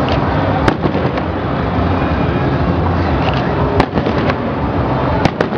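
Fireworks display: aerial shells bursting overhead in a continuous rumble and crackle. Sharp single reports stand out about a second in, near four seconds, and twice close together just before the end.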